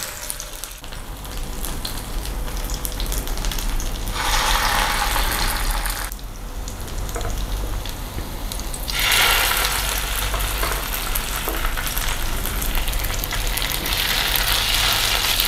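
A skewered vegetable seekh kebab sizzling as it shallow-fries in hot oil in a frying pan. The sizzle grows louder about four seconds in, eases about two seconds later, and rises again about nine seconds in.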